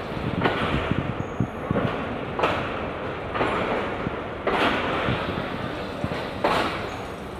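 Shalimar Express passenger coach running on the rails, heard from inside: a steady noisy rumble with louder swells about once a second.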